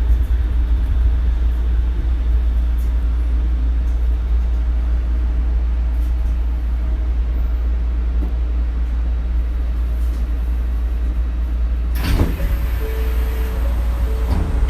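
Onboard running sound of a Shonan Monorail suspended monorail car: a steady low rumble from the running gear. About twelve seconds in there is a brief louder clatter, followed by two short steady whining tones.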